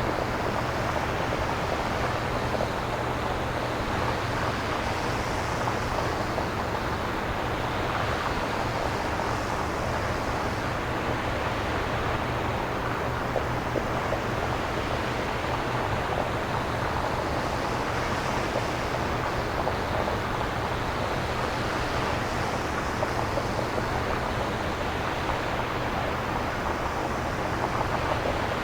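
Synthesizer-generated surf-like noise: a steady, even hiss with slow, gentle swells in its upper range every few seconds, imitating waves washing on a shore.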